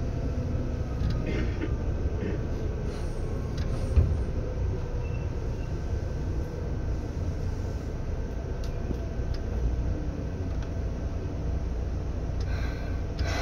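Seibu 2000 series commuter train running, heard inside the car: a steady low rumble with faint whining tones. There is a single thump about four seconds in and a few clicks near the end.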